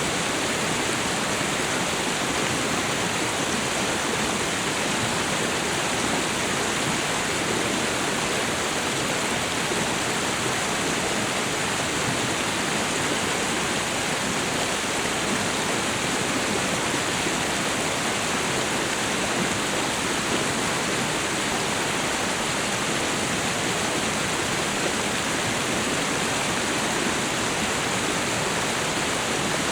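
Waterfall and river water rushing in a steady, unbroken roar of noise.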